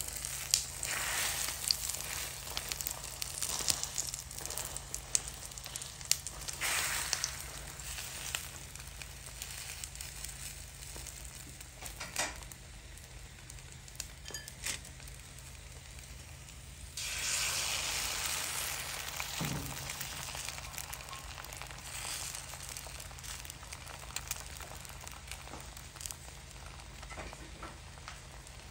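Egg omelette with microgreens frying in a pan: a steady sizzle scattered with small pops and crackles. It swells louder a few times, most strongly about two-thirds of the way through.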